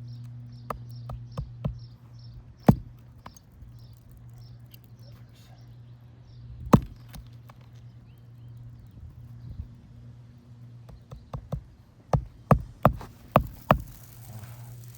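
Hammer striking roofing nails under an asphalt shingle: scattered single knocks, then near the end a quick run of about seven blows, roughly two a second, driving a nail home.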